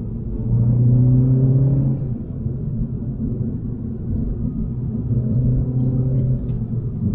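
MINI Cooper S's B48 turbocharged four-cylinder engine pulling under throttle while driving, over steady low road rumble. It gets louder twice, from about half a second to two seconds in and again from about five to six and a half seconds, holding a fairly even pitch each time.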